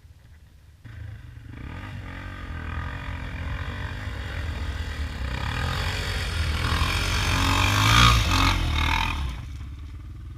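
Motorcycle engine running under acceleration, growing steadily louder to a peak about eight seconds in, then dropping away sharply.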